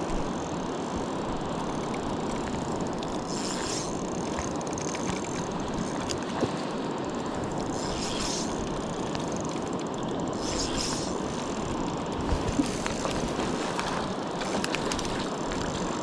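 A fishing reel clicking in three short spells as line is cranked in, over a steady rush of water.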